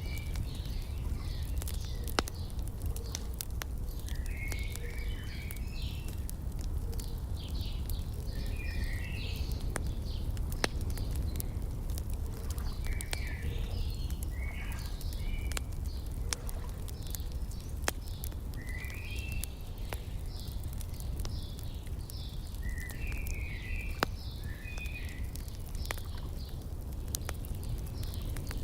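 Wood fire crackling with scattered sharp pops over a steady low rumble, while a songbird sings short chirping phrases every few seconds.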